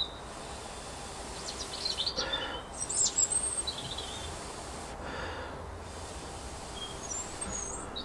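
Small birds chirping in short, high calls over a steady outdoor background, with a couple of soft rustles as the rope lighter and cedar tinder are handled.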